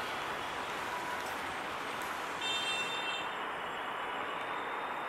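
Broad gauge passenger coaches of an intercity train rolling away over the rails, a steady rumble of wheels on track. A brief high-pitched tone sounds about two and a half seconds in.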